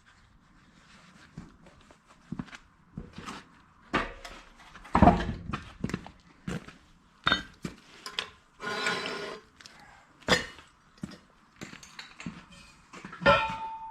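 Irregular metal clunks and clinks as a small gasoline engine is set onto a steel plate and shifted into position. The heaviest thump comes about five seconds in, and there is a scrape lasting about a second a little past the middle.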